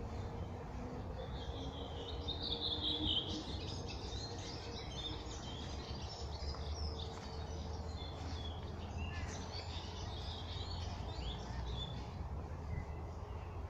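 Several songbirds singing and chirping in a spring forest, overlapping short phrases, with the loudest song a couple of seconds in. A low steady rumble runs underneath.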